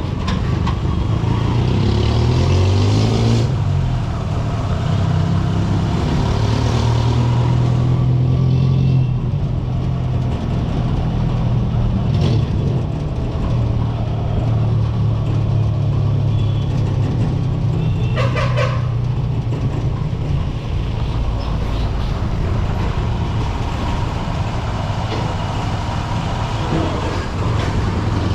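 Honda SP125's single-cylinder engine running in city traffic, its pitch rising and falling with the throttle, over street and traffic noise. There is a brief sharp higher-pitched sound about two-thirds of the way through.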